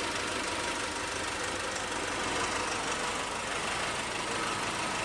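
2008 Nissan Navara D40's 2.5 common-rail turbo diesel running steadily; the engine is being diagnosed for a misfire and rough running, and its relative compression has tested even across all cylinders.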